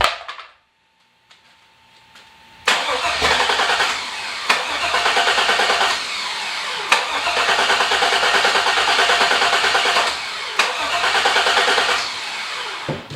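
Starter cranking a turbocharged GM LS V8 over and over without it catching. The cranking starts suddenly about three seconds in, runs for about nine seconds with a few short breaks, and stops near the end. The engine doesn't fire, which the owner puts down to the fuel pump not priming.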